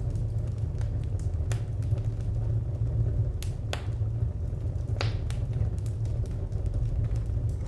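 Wood fire crackling: irregular sharp pops and snaps over a steady low rumble, with a handful of louder pops.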